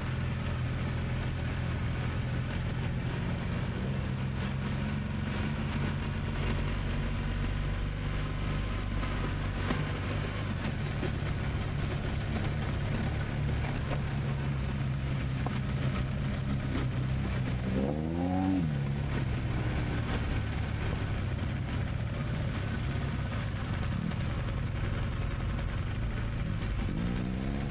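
An engine running steadily, with two brief rising revs: one about two-thirds of the way in and one near the end.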